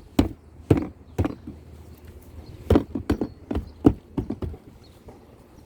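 Plastic door trim panel being knocked into place by hand, a series of sharp thumps as its retaining clips are driven back into the door: three in the first second and a half, then about six more in quick succession a little later.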